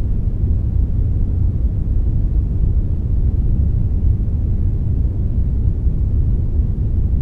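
Steady synthetic brown noise with a touch of white noise mixed in: a deep, even rumble that thins out toward the highs, with no change or events.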